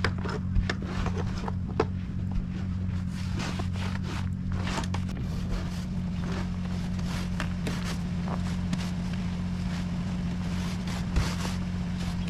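A steady low engine hum, with irregular crunches and scrapes in snow over it.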